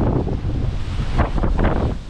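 Wind buffeting the microphone: a loud, irregular low rumble with gusty rushes of hiss, swelling about a second in.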